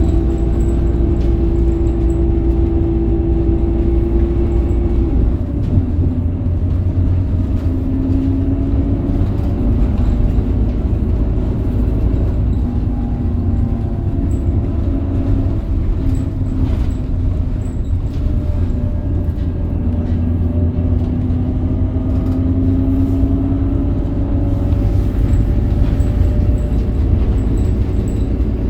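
Scania K270UB city bus on the move, heard from on board: its Scania DC9 five-cylinder diesel and ZF Ecomat automatic gearbox give a steady low rumble with humming tones that shift in pitch. One tone drops away about five seconds in, and another rises steadily near the end as the bus picks up speed.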